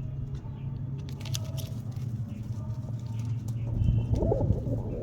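Indian fantail pigeons on a roof: a low wavering coo about four seconds in, after a short cluster of sharp scuffling clicks about a second in, over a steady low hum.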